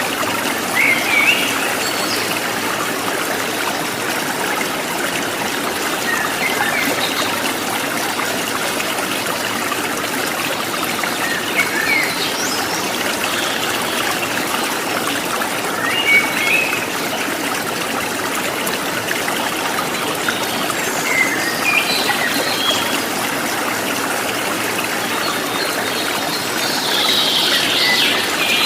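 Stream of running water, a steady trickling rush, with short bird chirps breaking in every few seconds and a busier burst of chirping near the end.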